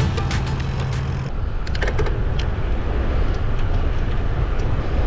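Wind and road noise picked up by a GoPro's microphone, covered by a WindSlayer foam wind cover, on a moving bicycle: a steady low rumble with hiss, and a few short clicks soon after it starts. Before that, about a second of background music cuts off abruptly.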